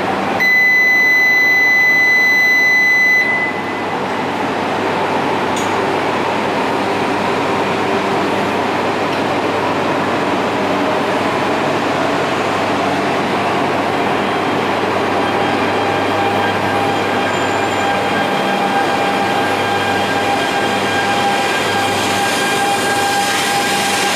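An electronic buzzer sounds one steady tone for about three seconds, over the steady hum of a Tōhoku Shinkansen train standing at the platform. About halfway through, a steady electrical whine from the train sets in beneath the hum.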